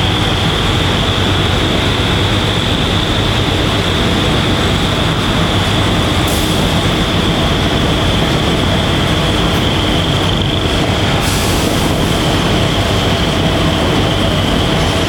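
Train running close by: steady diesel engine and wheel noise with a high, steady whine over it.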